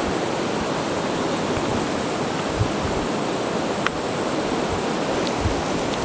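Steady rushing noise of strong wind and high surf on a beach, with wind buffeting the microphone at the low end and a faint tick about four seconds in.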